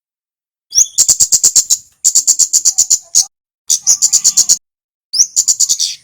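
Male kemade (kemlade merah) songbird calling in four quick phrases of sharp, very high chips, about eight chips a second, some phrases opening with a short rising note.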